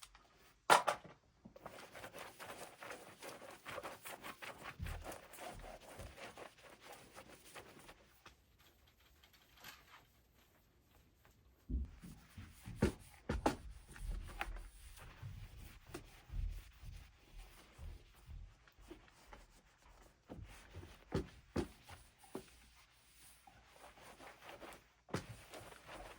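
Hands working on an unstrung electric guitar: a sharp click about a second in, several seconds of steady rubbing and wiping on the instrument, then a quieter spell, and after that scattered knocks and bumps as the guitar and tools are handled.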